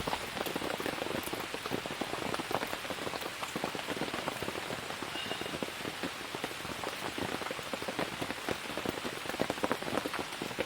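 Steady rain falling, with a dense, irregular patter of individual drops striking a surface.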